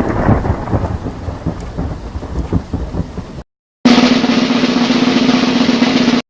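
A thunderstorm sound effect: rolling thunder over rain, with uneven low rumbles, cutting off about three and a half seconds in. After a short silence comes a second, louder effect, a steady noisy rush with a held low hum, lasting about two and a half seconds before it also cuts off.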